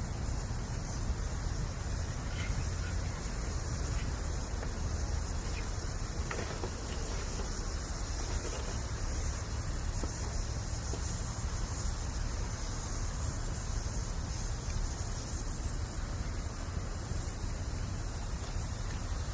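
Bamboo campfire burning: a steady high hiss with a few faint pops, over a low rumble.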